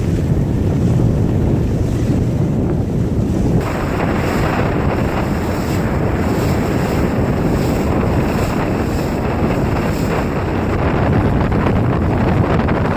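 Heavy wind buffeting the microphone over waves and water rushing past a sailboat under way in high wind. About three and a half seconds in, the hiss suddenly turns brighter.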